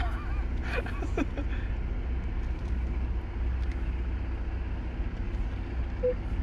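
Car running, heard from inside the cabin as a steady low rumble, with a few brief higher sounds about a second in.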